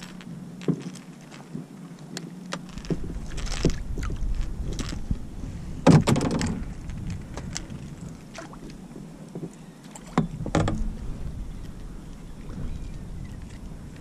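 Knocks and clatter on a plastic fishing kayak, with a loud thump about six seconds in and another a little after ten seconds, while a striped bass is handled aboard. Wind rumbles on the microphone at times.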